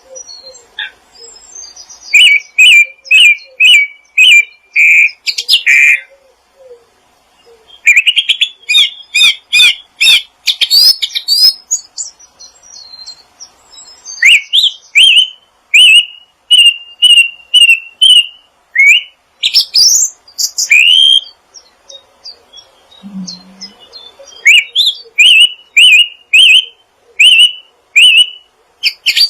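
Small songbirds chirping loudly in runs of short, repeated notes at about two a second, with a fast, dense flurry of notes in the middle and short pauses between the runs.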